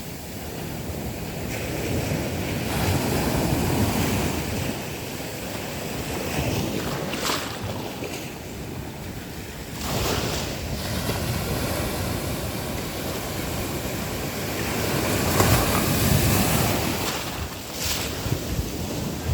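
Sea waves breaking on a beach, the surf swelling and washing back in waves every few seconds, loudest about 16 seconds in, with wind buffeting the microphone.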